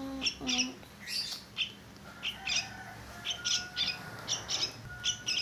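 Small fledgling birds chirping over and over in short, high cheeps, with a few longer thin steady tones in the second half.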